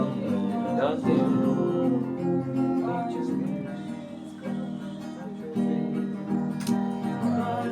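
Slow instrumental worship music: guitar playing over steady held keyboard chords.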